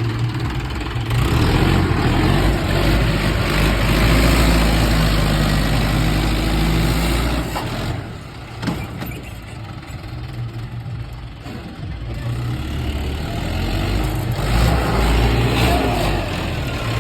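Tractor diesel engine running hard for the first several seconds, easing off about eight seconds in with a short click, then building up again.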